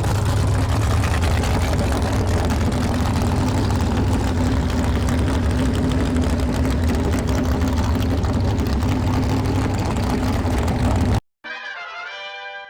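Drag-race truck engine idling steadily with a deep, even note. About eleven seconds in it cuts off abruptly, and a brief snatch of music follows.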